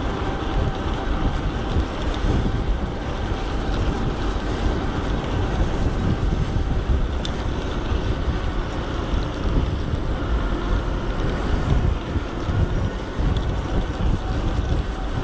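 Wind buffeting the microphone and road noise while riding an electric bike through town traffic: a steady rumbling rush with no distinct events.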